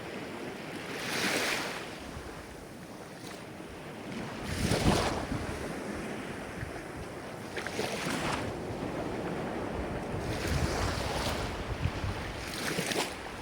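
Ocean waves washing in, a surge every two to three seconds over a steady hiss of surf, the loudest about five seconds in.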